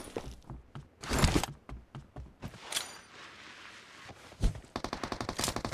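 Video game gunfire sound effects: a few scattered shots and thuds, then automatic weapon fire starting about a second before the end, a rapid even stream of about nine shots a second.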